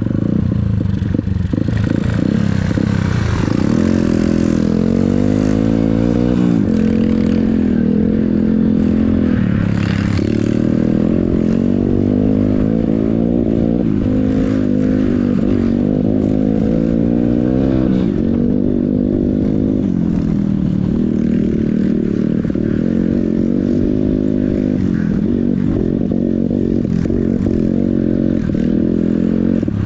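Yamaha XTZ125 trail motorcycle engine running under way, its pitch rising and falling every few seconds as the throttle is opened and closed, with rattling from the bike.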